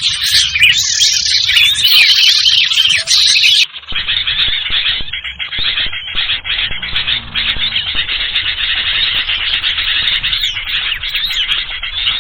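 Bird-lure recording of a noisy flock of small birds calling without pause. About three and a half seconds in it cuts abruptly to a duller, lower-quality spliced segment of continuous shrill squealing calls.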